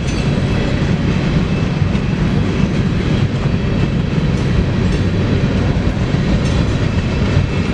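Train rolling past on the rails: a steady rumble of railcar wheels on track.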